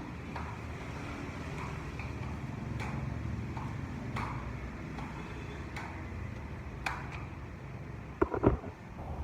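Scattered light clicks and taps over a steady low rumble, then a quick cluster of louder knocks near the end.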